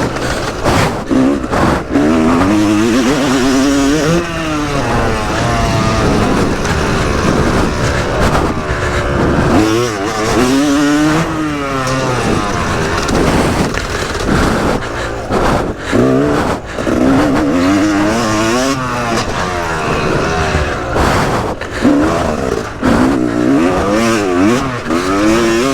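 Yamaha YZ250 single-cylinder two-stroke motocross engine under hard riding, the revs rising sharply and dropping back again and again as the throttle is worked through corners and gear changes.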